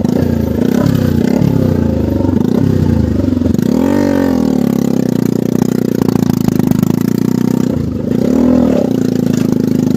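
Motorcycle engine running while under way, its revs rising and falling twice: about four seconds in and again near the end.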